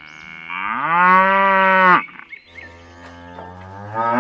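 A cow mooing twice in long, drawn-out calls. The first rises in pitch, holds, and cuts off about two seconds in; the second starts lower soon after and is still rising at the end.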